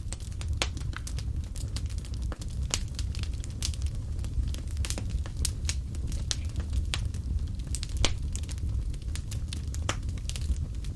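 Wood fire burning in a fireplace: irregular sharp crackles and pops over a steady low rumble of the flames, with one louder pop about eight seconds in.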